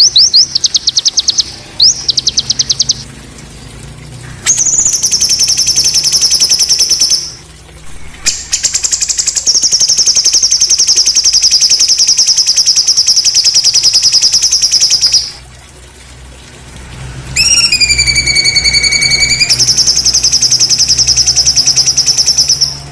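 A songbird giving loud, harsh, rapid-fire trills ('tembakan kasar'): a few short bursts, then long trills lasting several seconds each with brief gaps between them. One trill, about two-thirds of the way in, drops in pitch and then holds steady.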